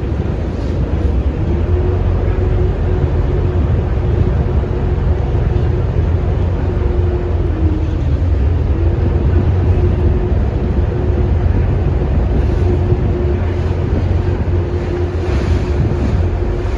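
Ferry's engine running with a steady low drone. Its pitch rises slightly about a second in, dips briefly about halfway through and begins to fall at the end. Wind buffets the microphone throughout.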